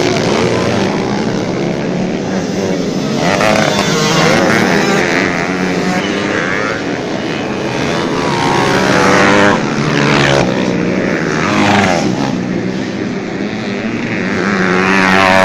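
Several dirt-bike engines racing, revving up and down with repeated rising sweeps as the riders accelerate and shift.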